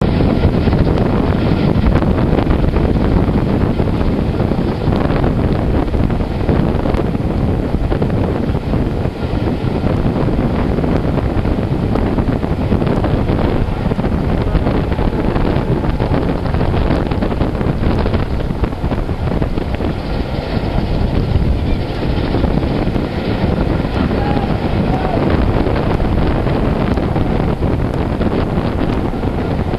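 Wind buffeting the microphone at an open window of a moving steam-hauled passenger train, over the steady rumble of the carriages running on the track.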